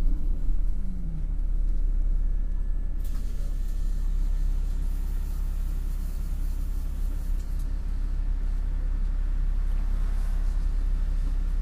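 MAN NL253 Hybrid city bus under way: a steady low drivetrain rumble, with a short falling whine about half a second in. A steady high hiss starts about three seconds in and stops suddenly about four seconds later.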